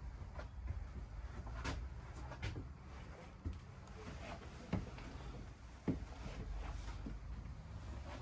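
Scattered light knocks and clicks, about half a dozen spread over several seconds, the clearest a little before and a little after the middle, over a low steady rumble inside a small room.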